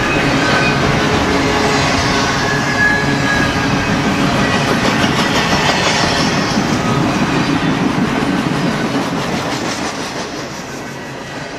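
Double-stack intermodal freight cars rolling past on steel wheels: a steady rumble and clatter of wheels on rail, with a few faint high wheel-squeal tones, easing off near the end as the last cars go by.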